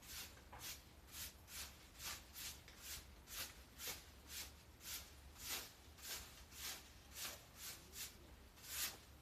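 Repeated scraping strokes from garden clean-up work, evenly paced at about two a second, each a short hiss.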